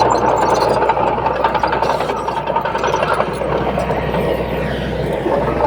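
Diesel engine of a heavy earthmoving machine running steadily, with a constant low hum.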